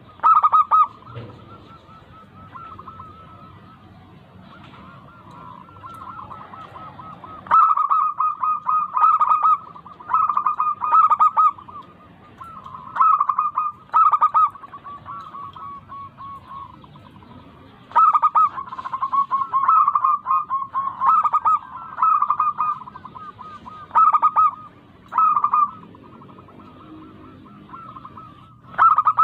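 Zebra dove (perkutut) cooing: phrases of rapid, pulsed coos, repeated every second or two. After a pause of several seconds near the start, the phrases come thickly from about eight seconds in.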